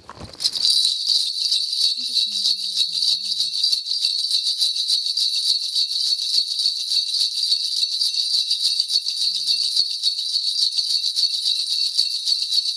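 Korean shaman's ritual bells (mudang bangul) shaken rapidly and without a break, a dense, even jingling that starts about half a second in.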